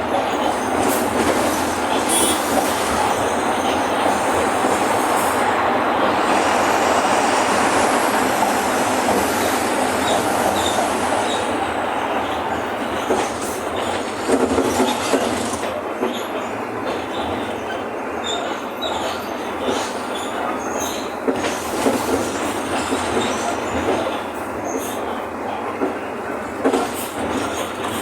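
Inside a Mercedes-Benz OF-1519 city bus on the move: its diesel engine runs under a steady rumble of road noise, with body panels rattling and knocking, more often in the second half.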